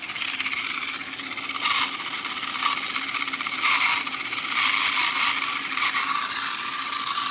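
Battery-powered Trackmaster toy trains running on plastic track: a steady electric motor whine with gear and wheel clatter.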